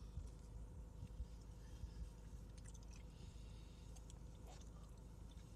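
A person faintly chewing food, with a few soft mouth clicks over a low steady rumble.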